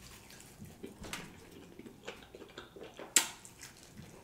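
Close-miked chewing of a bite of pizza crust: soft wet mouth clicks and small crunches, with one sharper, louder click about three seconds in.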